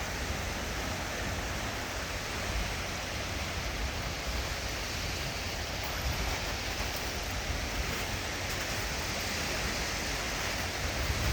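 Steady wash of small waves on a sandy bay beach, with a low rumble underneath.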